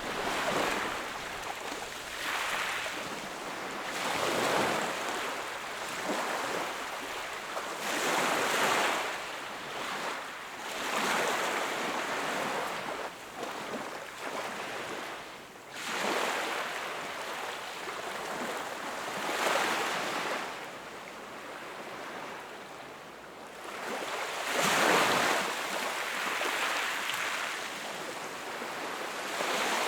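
Small waves breaking and washing up a beach, each one rising to a rush of surf and draining back, about one every three to five seconds, the strongest about twenty-five seconds in.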